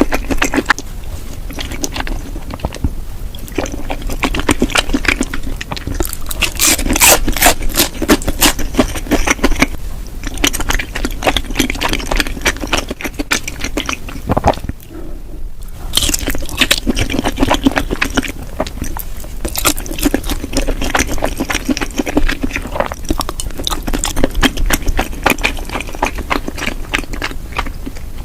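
Close-miked eating of cheesy rose tteokbokki (chewy Korean rice cakes in a creamy, cheesy sauce): wet chewing with quick mouth clicks and crackles, pausing briefly about halfway.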